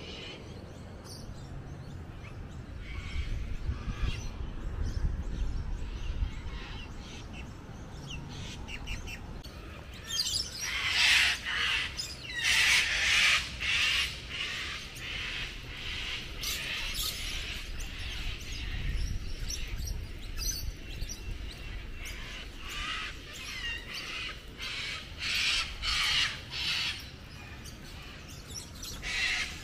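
Birds calling, with a run of loud, repeated calls starting about ten seconds in and carrying on until near the end.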